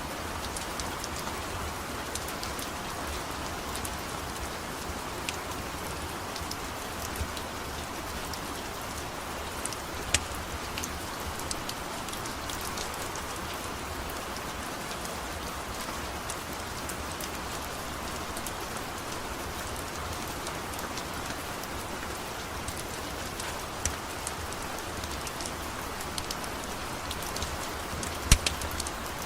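Steady rain falling on a surface, an even hiss, with a few sharp clicks scattered through it, the loudest about ten seconds in and again near the end.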